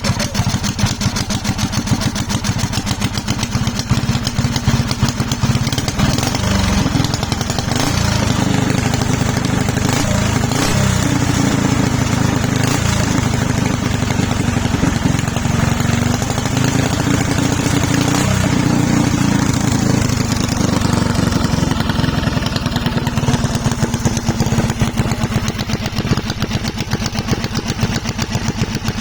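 Honda 13 hp engine running steadily, its speed wavering a little between about six and twenty seconds in.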